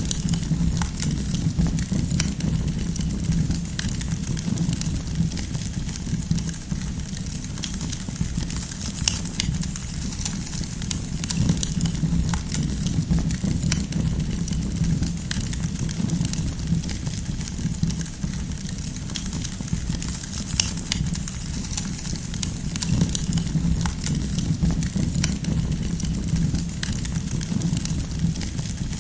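Wood campfire burning: irregular sharp crackles and pops of the firewood over a steady low rumble.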